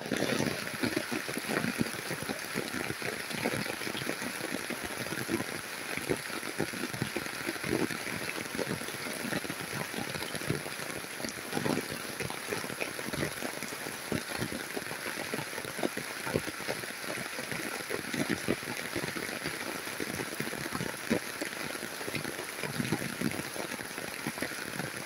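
Heavy rain falling steadily on grass and leafy plants: a dense even hiss with many distinct close drop hits.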